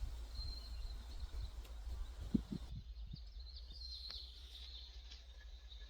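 Outdoor ambience: a steady low wind rumble on the microphone with faint bird chirps, and a few soft thumps about two seconds in.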